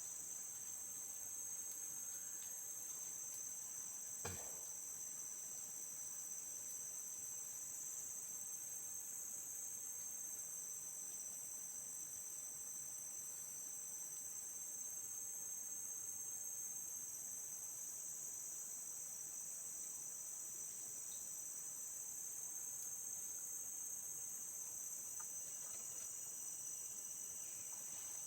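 Steady high-pitched chorus of insects, several continuous shrill tones layered together, with one soft knock about four seconds in.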